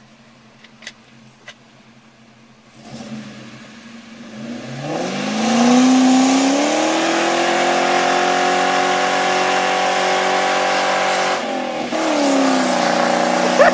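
Ford Mustang GT V8 with a MagnaFlow exhaust doing a standstill burnout. After a few quiet seconds the engine revs up about four seconds in and holds high revs with the hiss of spinning tyres, dips briefly near the end, then climbs again.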